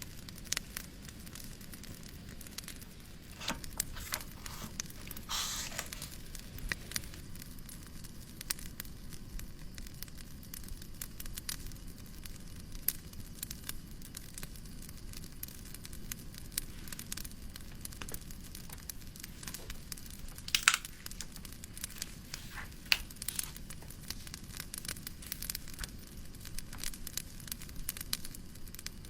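Wood fire crackling in a fireplace: irregular small pops and a few louder snaps over a steady low hiss of white noise.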